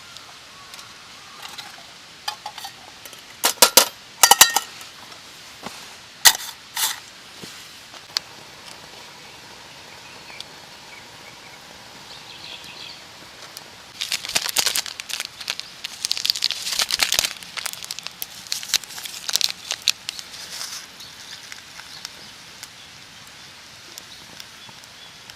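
Wood fire crackling: a few sharp pops in the first seven seconds, then a longer spell of dense crackling about halfway through.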